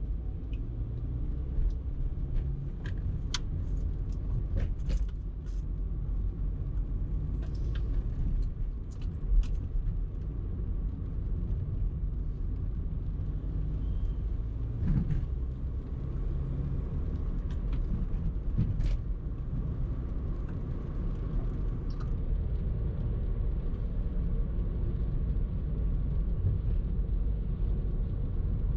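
Car driving in rush-hour traffic: a steady low rumble of engine and road noise, with scattered sharp clicks and knocks, most of them in the first ten seconds.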